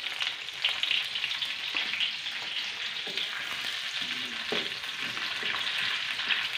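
Sliced garlic and lemongrass sizzling and crackling in hot oil in a metal wok, frying to release their aroma. Later on, a wooden spatula stirs them, scraping against the wok.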